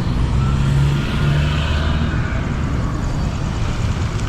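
A motor vehicle's engine running, a steady low rumble with a stronger engine tone during the first second and a half.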